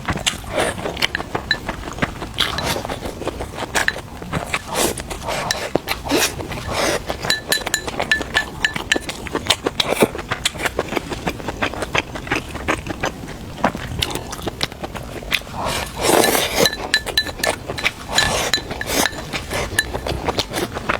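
Eating sounds: close-up chewing and the irregular clink of utensils against a bowl, with faint background music.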